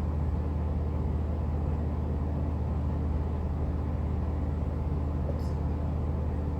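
A steady low mechanical hum that runs on without change.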